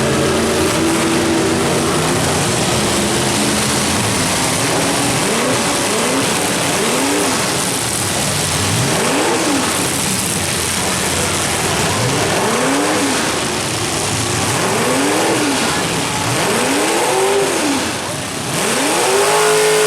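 Demolition derby truck engines revving up and dropping back again and again over a loud steady din of engines, the revs coming every second or two from about five seconds in.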